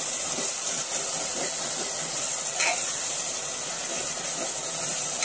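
Onion-tomato masala sizzling in a pressure cooker while a metal ladle stirs it, with light scrapes and taps of the ladle against the pot now and then.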